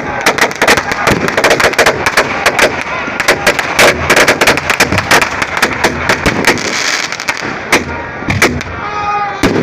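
Fireworks and firecrackers going off in a rapid, dense string of sharp cracks and bangs, many a second, thinning briefly about seven seconds in. A voice comes in near the end.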